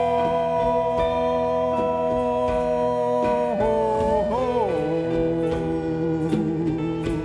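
Live band music with sustained tones. About halfway through, the melody slides down and then wavers, over light, steady percussion.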